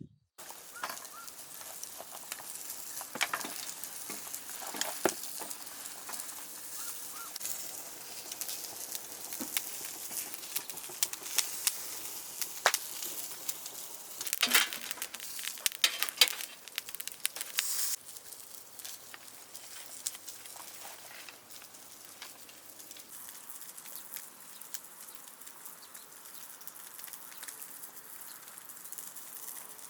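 Wood bonfire crackling and hissing, with many sharp pops that come thickest in the first half and thin out after about eighteen seconds.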